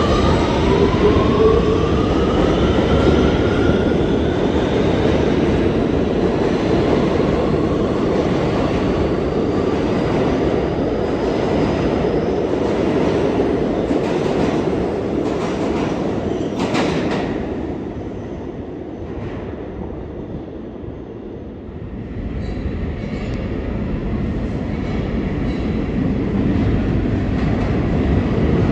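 New York City Subway A train pulling out of the station, its traction motors whining upward in pitch for the first few seconds over a heavy rumble of wheels on rails. The rumble then carries on with a brief loud clatter partway through, eases off around two-thirds of the way in, and builds again near the end.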